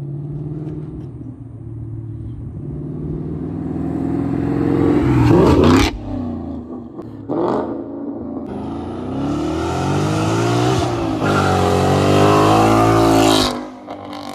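Ford Mustang GT's 5.0 V8 through a new MBRP cat-back exhaust, loud as the car accelerates hard past. The revs climb steadily, break off sharply about six seconds in, then climb again twice before cutting off near the end.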